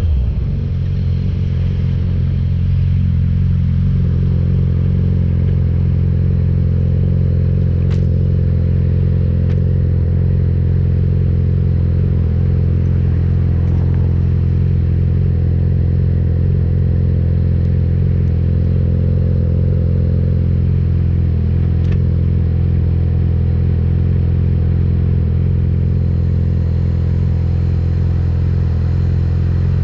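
Yamaha YZF-R6's inline-four engine running at a steady, unchanging speed, with a few faint clicks.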